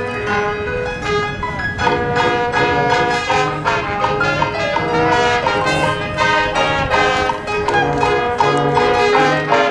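Marching band playing, brass leading with short repeated notes over a steady low beat.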